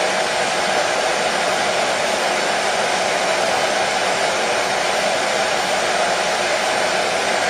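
Hair dryer running continuously, a steady even rush of air and motor noise with no change in pitch or level.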